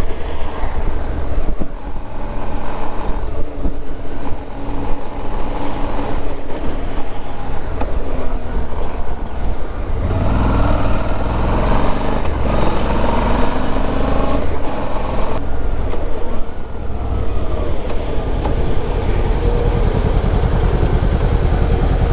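Motorcycle engine running while riding, with wind and road noise over the microphone; about ten seconds in, the engine note rises and falls as the bike accelerates through the gears.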